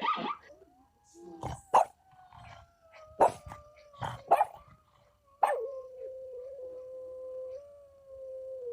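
A dog howling: one long note that slides slowly down in pitch and then holds steady, with several short sharp barks over the first half.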